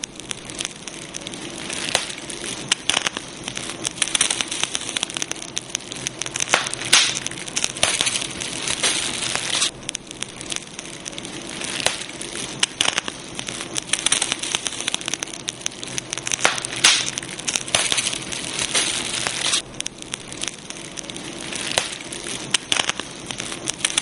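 Campfire crackling: burning wood giving a dense, irregular run of small pops and snaps over a steady hiss.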